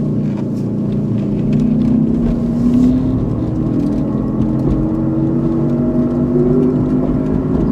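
A woman humming long, slowly gliding notes over the steady road and engine noise inside a moving car's cabin.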